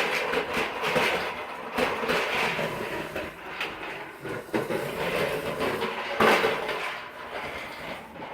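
A child's push-along popper toy clattering as it is pushed, its plastic balls rattling and popping against the clear dome in an irregular string of light clicks. One louder clack comes about six seconds in.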